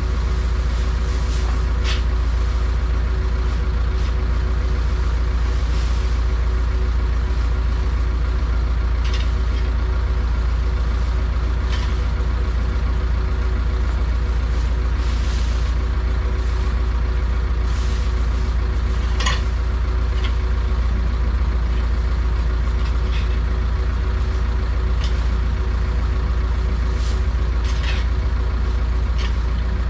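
Ursus C-360 tractor's three-cylinder diesel engine running steadily under way, with occasional short clicks and rattles.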